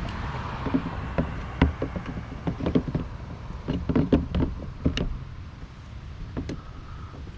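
Hard plastic case knocking and clicking against its metal adapter plate as it is handled and fitted onto the motorcycle, in an irregular run of sharp knocks, busiest in the middle and thinning out near the end.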